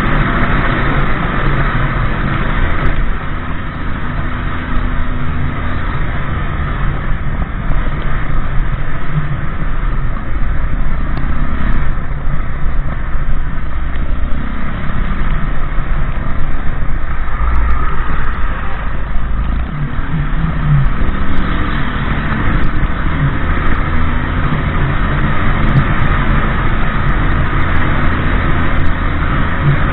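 Motorbike running along the road: a loud, steady engine drone with road noise.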